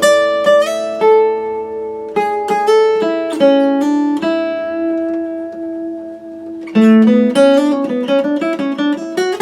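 1974 Martin D-18 dreadnought acoustic guitar played, picked notes and chords ringing out with rich overtones. One note is held for a couple of seconds near the middle, then a quicker run of notes follows.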